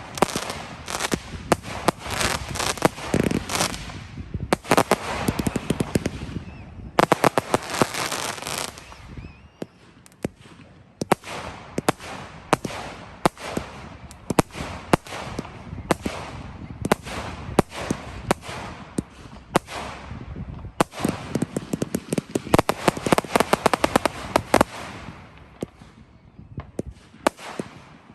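Fireworks going off in rapid, overlapping bangs and crackles, thickening into dense crackling barrages three times and thinning out in between.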